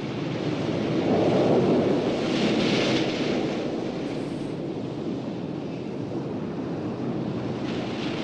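Surf and turbulent water rushing over the outer edge of a coral reef: a steady rushing noise that swells louder from about one to three seconds in.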